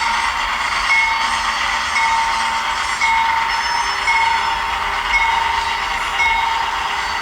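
Kato HO-scale Dash 9-44CW model locomotive running with its ESU LokSound 5 sound decoder playing diesel locomotive sound, over a steady hiss of running noise. A short ringing tone repeats about once a second.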